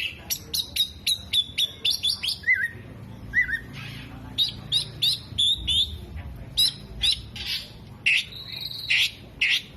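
Oriental magpie-robin (kacer) singing loud, fast runs of short, sharp, high chirps, about three or four a second, with a couple of lower twittering notes between the runs.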